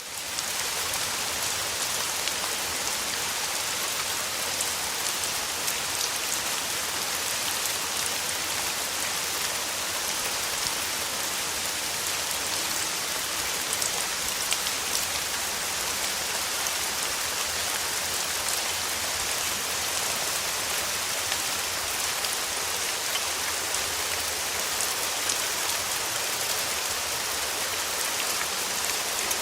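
Steady rain falling, with many separate drops striking a surface. It fades in from silence right at the start, then holds at an even level.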